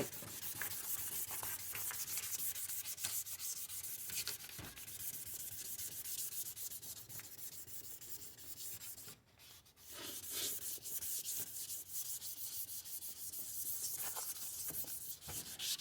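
Sandpaper rubbed back and forth by hand over a plastic headlight lens, a quick, scratchy rasping made of many short strokes. The sanding stops for about a second just after the middle, then carries on.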